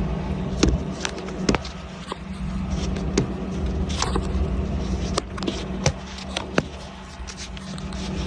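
Sharp clicks and knocks of a plastic filter cover and its quarter-turn fasteners being handled and turned to lock, over a steady low machine hum.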